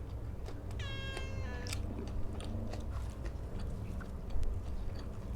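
A cat meowing once, about a second in: a single call under a second long. Small clicks of chewing and eating run around it.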